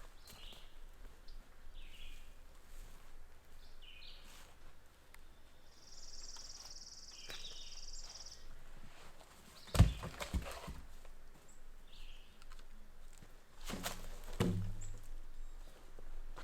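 Two heavy thuds, the first and loudest about ten seconds in, the second about four seconds later, amid a few short bird chirps and a brief buzzing trill.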